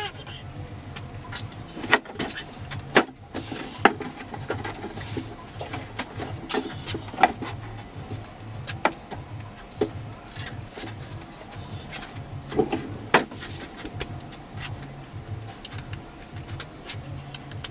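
Scattered sharp knocks and clicks, a few seconds apart, over a low steady hum.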